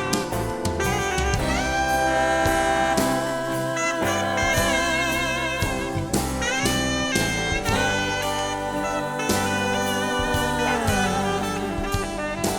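Live band instrumental break: an alto or tenor saxophone plays a solo with held, bending notes and vibrato over drum kit, bass and keyboards.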